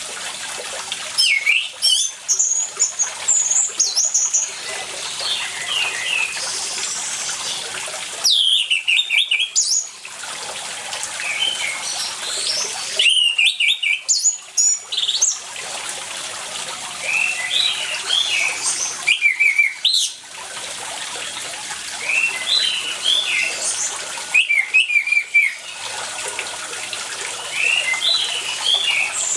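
Orange-headed thrush singing in loud, fast, high phrases that come in bouts every few seconds, with quieter chirps between, over the steady sound of running water.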